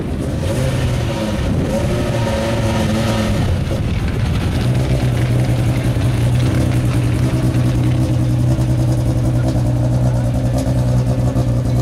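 Rally car engine running at a steady idle, with people talking over it during the first few seconds.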